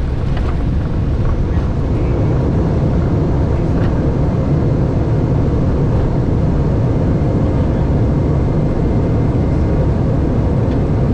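Airbus A320 cockpit during the landing rollout: a loud, steady low rumble of the airliner rolling and slowing on the runway after touchdown.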